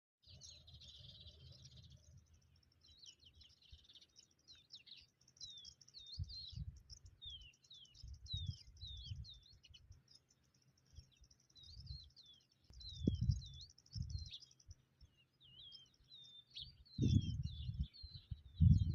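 Several small songbirds chirping and trilling, a rapid run of short, quick down-slurred notes and rattling trills throughout. Now and then comes a brief low rumble, loudest about two-thirds of the way through and near the end.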